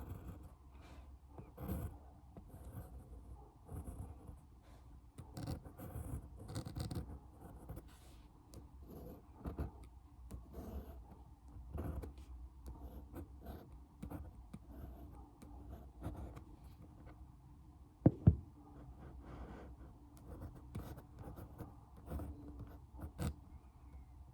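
Close-miked ASMR tapping and hand sounds: quick, irregular fingertip taps and scratches with light rubbing between them. A sharper, louder double tap comes about three-quarters of the way through.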